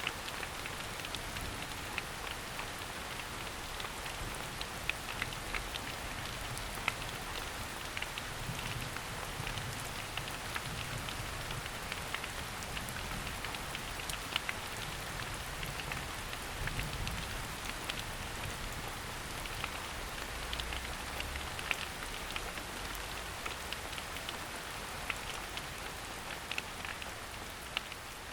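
Steady rain falling in a forest, a continuous hiss with many distinct drops pattering on leaves.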